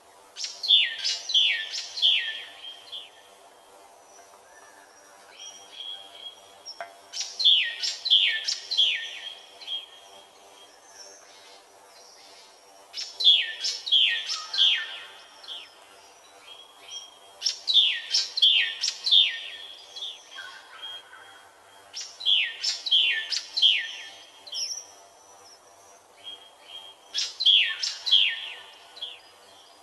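A songbird singing the same short phrase six times, about every five seconds: each phrase is a quick run of four or five high notes, each sliding downward. A faint steady hum runs underneath.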